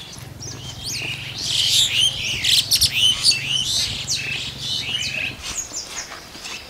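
Several birds chirping and calling, a dense mix of short rising and falling chirps that is busiest in the middle. Under them runs a low steady hum that stops about five seconds in.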